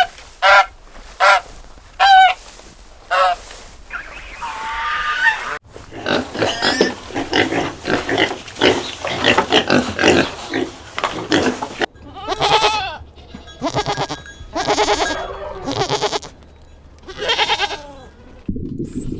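Farm animals calling in a run of short clips: a few short honks at the start, then a dense stretch of many overlapping squeals and grunts, then several separate bleating calls. Near the end it cuts abruptly to a low noise.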